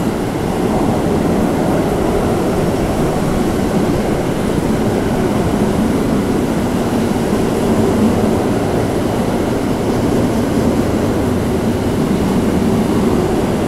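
Loaded double-deck car-transporter freight wagons rolling past close by: a steady rumble of steel wheels on the rails.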